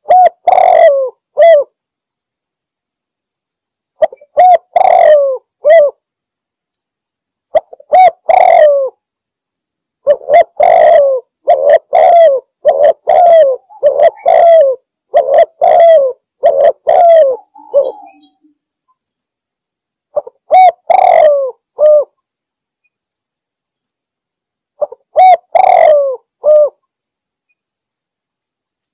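Spotted dove (tekukur) cooing: short phrases of a few coos, each note bending up then down in pitch, in bouts a second or two long separated by silent gaps, with a longer unbroken run of phrases from about ten to eighteen seconds in. It is the dove's calling to a rival, used as a lure call.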